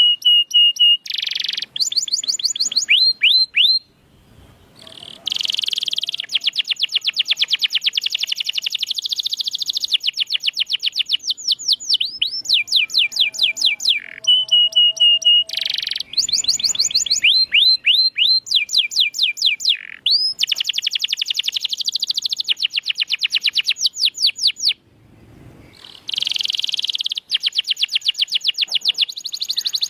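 Domestic canary singing a long, energetic song of rapid trills, held whistled notes and downward-sweeping calls, broken by two short pauses.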